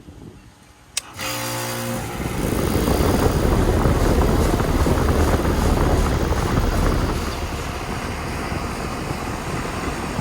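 2000 Payne Teardrop central air conditioner condensing unit starting up: a sharp click about a second in as power is switched on at the disconnect, the Copeland reciprocating compressor humming in at once, then the condenser fan spinning up over the next second or so into a steady loud running noise.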